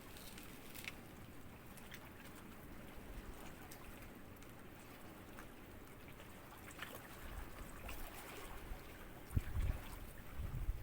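Gentle small sea waves lapping and trickling at the shore, with scattered little splashes. A few low thumps come near the end.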